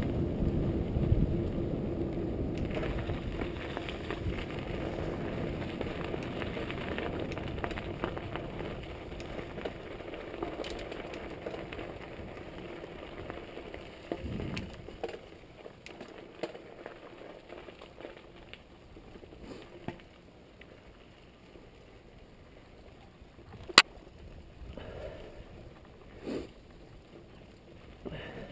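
Trek Fuel EX8 mountain bike rolling on a dirt trail: tyre and wind noise with small rattles and clicks from the bike. It fades as the bike slows, with one sharp click about three-quarters of the way through.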